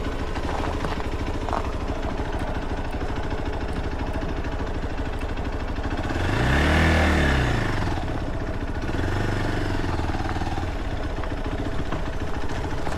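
Motorcycle engine running under way, with steady road and wind noise. About six to eight seconds in, an engine grows louder and rises and then falls in pitch before fading back.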